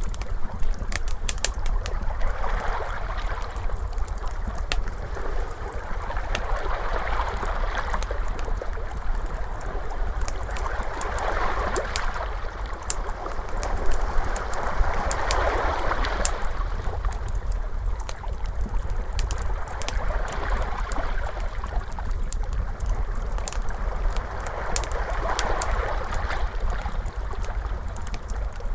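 Wood fire crackling with frequent sharp pops, over ocean waves washing in and out in slow swells.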